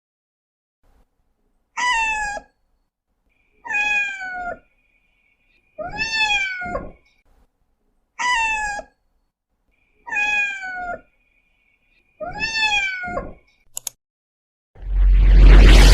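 A domestic cat meowing six times, one meow about every two seconds, each much like the last. Near the end a loud rising whoosh builds up.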